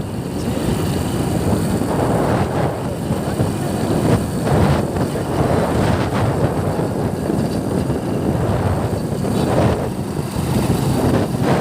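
Wind buffeting the microphone during a bike ride, over the steady rumble of the moving vehicle and road.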